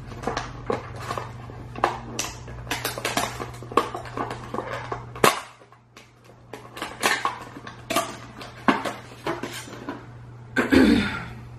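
Close-miked chewing of sushi: a quick run of wet mouth clicks and smacks, with a short lull about halfway through. A louder noise comes near the end, as chopsticks are picked up.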